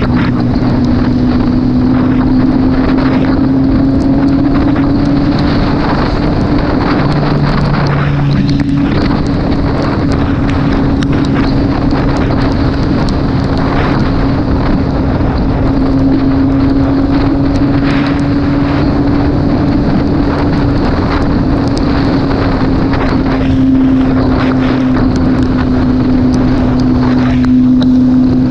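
Motorcycle engine running at a steady cruise, its note drifting slightly up and down, under loud wind noise on the microphone.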